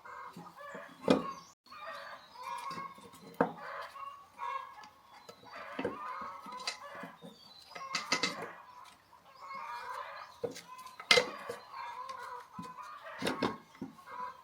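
Chickens clucking steadily, with several sharp knocks or clinks spread through it, the loudest about a third and three-quarters of the way in.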